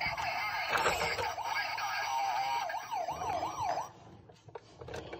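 Toy police car's electronic siren, set off by pushing its button: a wavering wail that turns into a faster up-and-down yelp near the end, cutting off after about four seconds.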